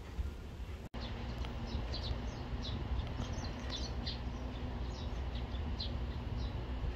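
Small birds chirping, a quick series of short high calls over a steady low outdoor rumble. The sound cuts out for an instant about a second in.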